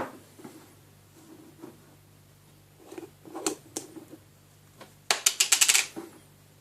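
Kitchen handling sounds as a peanut butter jar and spoon are got out. There is a sharp knock at the start and a few light knocks around the middle, then a quick rattling run of about ten clicks about five seconds in.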